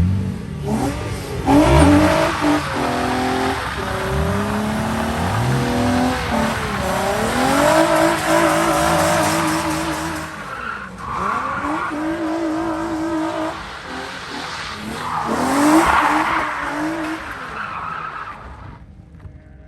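Sports car engine revving hard, its pitch climbing and dropping several times, with tyres squealing in long stretches over the engine.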